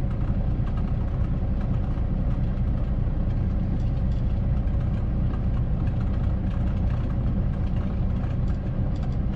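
Steady low rumble of a semi-truck's diesel engine and road noise heard inside the cab while driving at an even speed.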